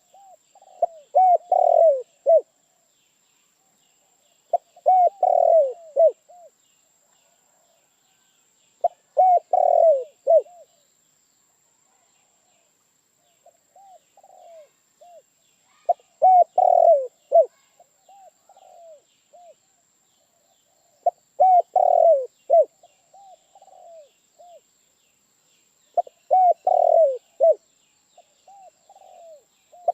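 Spotted dove cooing: six phrases of several short, hollow coos each, one every four to six seconds, with fainter coos in some of the gaps.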